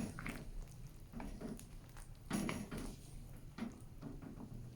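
Scattered light kitchen clatter: soft knocks and clinks of utensils and cookware, with a louder knock about two and a half seconds in.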